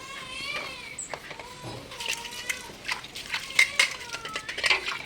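A cat meows once at the start, then dishes and utensils clink and clatter as they are handled for scrubbing.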